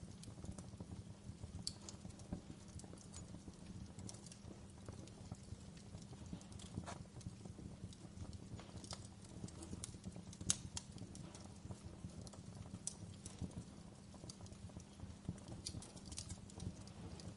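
Wood fire burning in a fireplace: a low steady rumble of flames with irregular sharp crackles and pops, one louder pop about ten seconds in.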